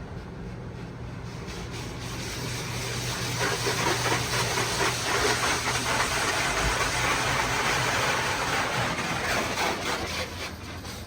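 HydroSpray in-bay automatic car wash spraying high-pressure rinse water over the car, over a steady machine hum. The spray builds about two seconds in, stays strong, and falls away near the end as it passes off the car.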